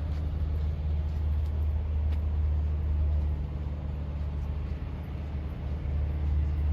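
Steady low engine hum with no change in speed, and a few faint ticks.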